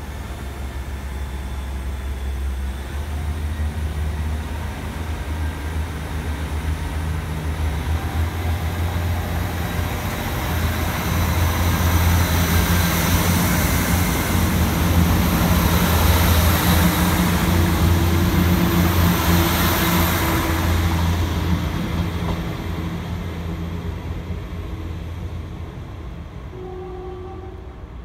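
A diesel multiple unit pulling out of the station. Its engine note and wheel noise build as it accelerates past, peaking about halfway through with a thin high whine, then fading away as it leaves.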